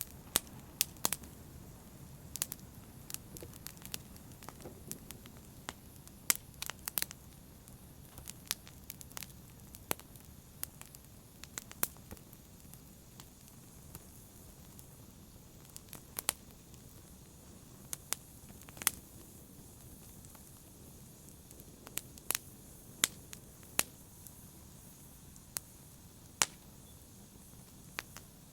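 Wood fire burning in a fireplace, with sharp, irregular crackles and pops over a faint low rumble of the flames.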